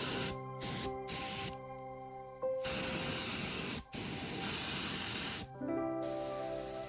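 Spray hissing in repeated bursts: two short ones, then two longer ones of about a second and a half each, over background music.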